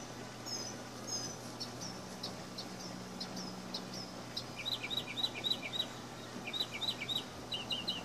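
Songbirds chirping: short high notes repeated about twice a second, then quicker runs of chirps from about halfway through.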